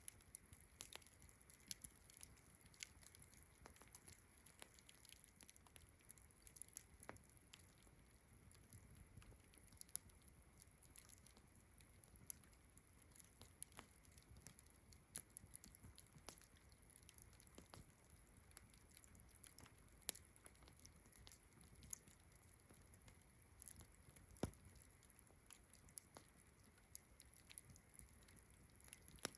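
Campfire crackling faintly: irregular sharp pops and snaps of the burning wood, a few louder ones. Behind it runs a steady high-pitched chorus of crickets.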